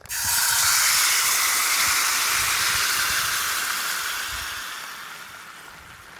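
Ingredients hitting a hot oiled pan over a campfire: a loud sizzle that starts suddenly and dies away slowly over about six seconds.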